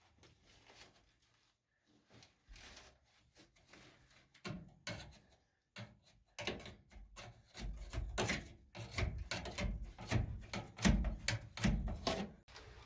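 Irregular knocks, scrapes and rubbing from hand work on a van's interior trim and panelling around a window. Nearly silent for the first couple of seconds, then the knocking grows busier and louder from about halfway in.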